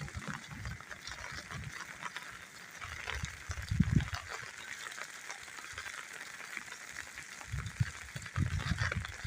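Rain pattering and crackling steadily, with bouts of low rumbling thumps about three seconds in and again near the end.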